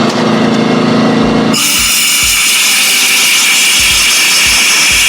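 A DeWalt 6-gallon air compressor's motor hums steadily. About a second and a half in, a loud, even blast of compressed-air hiss starts abruptly as air is blown into a cylinder-head bolt hole to clear out leftover coolant, and it runs on to the end.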